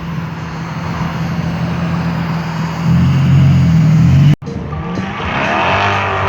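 Nissan 350Z's V6 idling, then revved for about a second and a half starting about three seconds in. The sound then cuts off sharply into a different car-meet sound with wavering higher tones.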